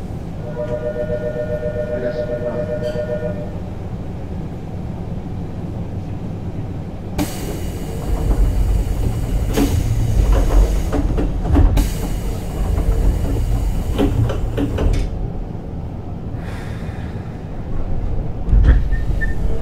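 Keisei 3600 series commuter train running, with a steady rumble. Near the start a pair of steady tones sounds for about three seconds. About seven seconds in the rail noise turns much louder, with clattering clicks, and eases off after about eight seconds.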